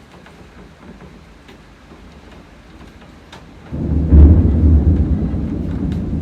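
Light rain falling with scattered drips, then about two-thirds of the way in a loud thunderclap breaks in suddenly and rumbles deep and low, slowly fading.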